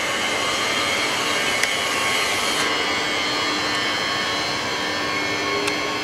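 Double-deck SNCF TER electric multiple unit passing on the line: a steady rush of wheels on rail with a few steady tones running through it, and a couple of faint clicks.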